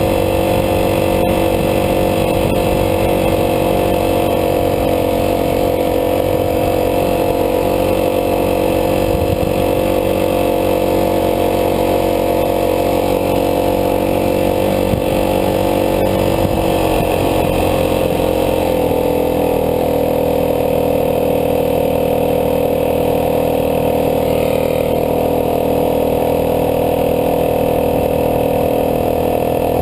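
Dirt bike engine running under way at a steady speed. Its pitch drops a step about two-thirds of the way through, then holds steady again.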